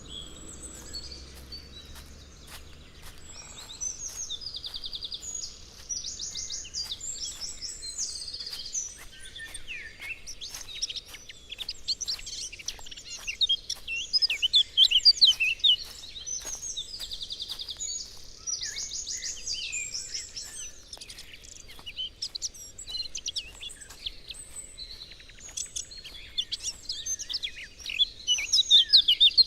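Several songbirds singing at once: rapid repeated trills and chattering chirps overlapping, busiest in the middle and again near the end.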